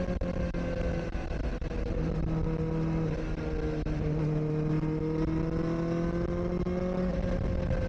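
Kawasaki Ninja ZX-4RR's 399 cc inline-four engine running under way at steady moderate revs, its note dipping slightly about two seconds in and then drifting gently, with wind and road rumble underneath.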